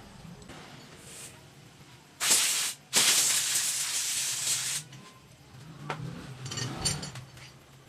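Two bursts of pressurised spray hissing, a short one about two seconds in and then a longer one of nearly two seconds, followed by a few light knocks near the end.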